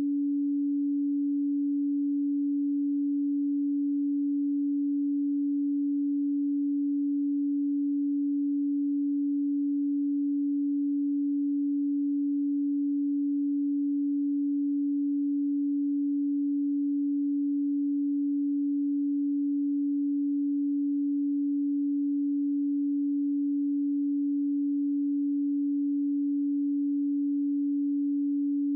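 A pure 285 Hz sine tone, held steady and unchanging.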